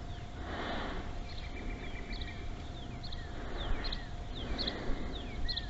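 A small bird calling: a string of short, high, falling chirps over a faint steady hum.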